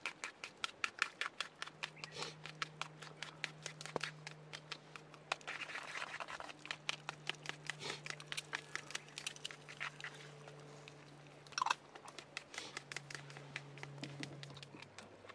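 A person eating tamago kake gohan (raw egg over rice) close to the microphone: a quick run of short clicks and wet chewing, about four a second.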